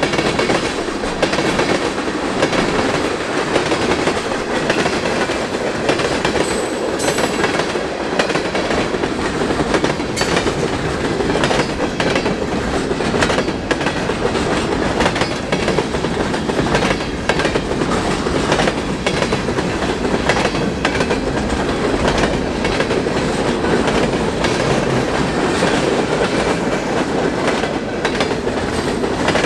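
Freight cars of a passing CN mixed freight train rolling by, the wheels clicking steadily over the rail joints. A brief high squeal about seven seconds in. Wind buffets the microphone.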